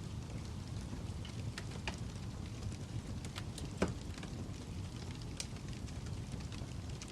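Wood fire burning in a fireplace: a steady low rumble of flames with scattered sharp crackles and pops from the logs, the loudest pop about four seconds in.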